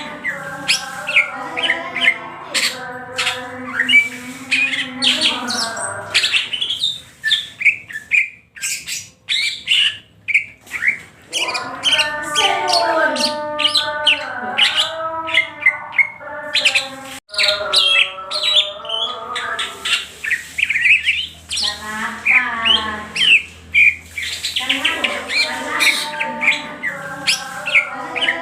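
Green leafbird (cucak hijau) singing continuously: a rapid, varied stream of chirps and whistles over lower drawn-out notes, pausing briefly a third of the way through.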